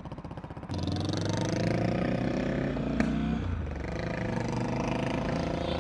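Motorcycle engine opening up under way and pulling steadily, with a click and a brief dip in pitch about three seconds in, as at a gear change.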